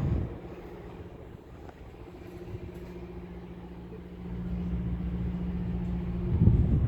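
Steady low hum of an idling engine, growing louder about four seconds in, with a low thump near the end.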